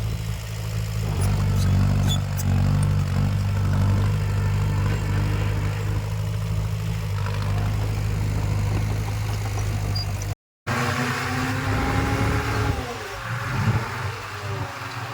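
Diesel engine of a heavy earthmoving machine running steadily. About ten seconds in, the sound drops out for a moment and comes back changed, with a falling whine over the engine.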